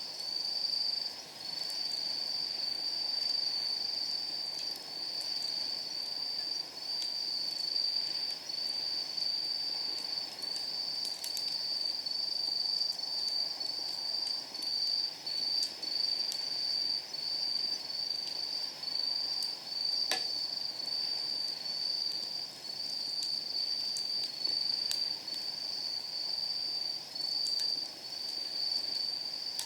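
Night insects trilling at a high pitch in short repeated phrases, the loudest sound throughout. Behind them, a wood fire crackles faintly, with one sharper pop about twenty seconds in.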